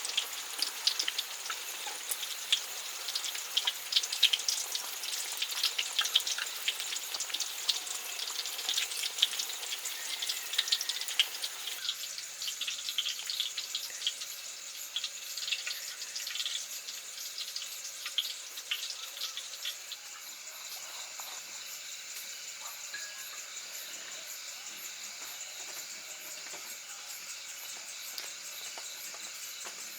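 Food frying in a pan, sizzling with dense crackling for about the first twelve seconds, then thinning and settling to a quieter, steadier sizzle.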